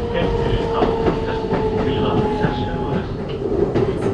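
Keikyu New 1000 electric train from inside the car: the Siemens GTO inverter's steady motor whine over wheel-on-rail rumble, with faint rail-joint clicks. The whine tones drop away about three seconds in.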